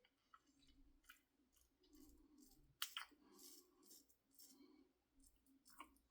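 Faint, short scraping strokes of an IBC Kamasori shavette razor cutting through lathered stubble, about two strokes a second, with a sharper scrape about three seconds in.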